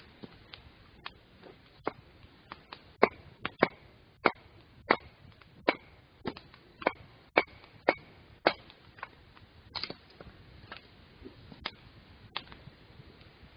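A series of sharp knocks, about two a second and loudest through the middle, with fainter scattered knocks before and after.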